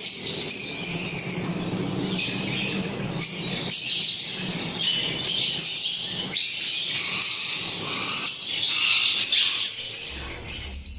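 A mixed flock of small pet parrots (budgies, lovebirds, cockatiels and ringnecks) chattering and chirping all at once in a dense, continuous din. It fades about ten seconds in.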